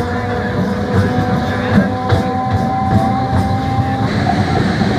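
MEMU electric train running on the rails: a steady electric whine over the rumble of the wheels, with scattered clicks. The whine changes pitch about two seconds in and fades out near the end.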